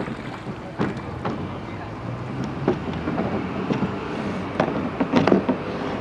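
Irregular knocks and clunks of oars and gear being handled in a large wooden-style rowing boat, over a low steady hum, with faint voices.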